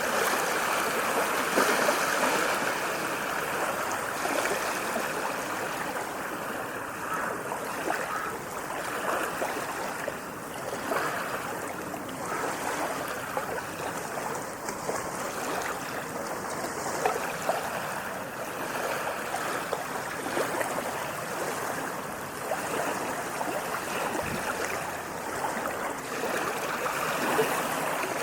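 Continuous moving water, rushing and lapping, a little louder near the start and again near the end.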